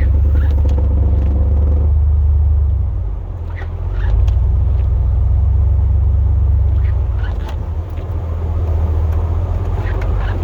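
Pickup truck plowing snow: a steady low rumble of the engine and drivetrain from inside the cab. It eases off briefly about three seconds in, then picks up again.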